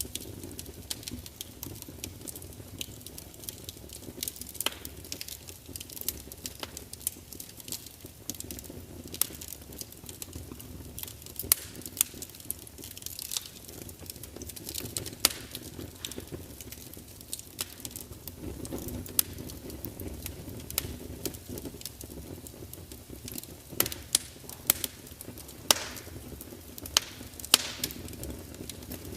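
Log fire burning in a large open fireplace: a low steady rumble of flames under frequent sharp crackles and pops at irregular intervals, with clusters of louder pops near the end.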